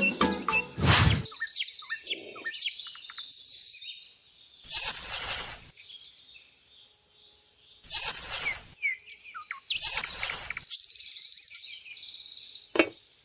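Birds chirping and calling in quick, high twittering notes, broken by three short bursts of hissing noise about five, eight and ten seconds in and a sharp click near the end.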